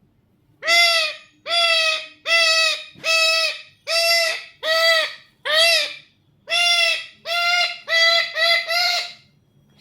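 A pet tiya parrot (parakeet) calling loudly, about a dozen harsh, evenly pitched squawks of about half a second each, roughly one a second and quickening near the end.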